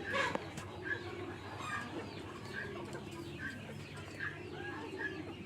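A flock of chickens clucking, with many short high calls repeating throughout and lower, drawn-out clucks beneath them.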